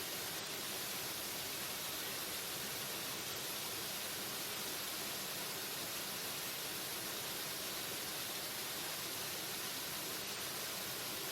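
Waterfall: a steady, unbroken rush of falling water, strongest in the hiss of the upper range, with no change in level.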